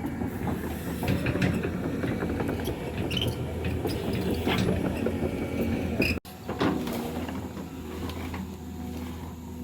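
Excavator at work: its diesel engine running under a dense rattle of clanks and scrapes from the machine's tracks and bucket. About six seconds in the sound breaks off for an instant, then the engine continues more steadily.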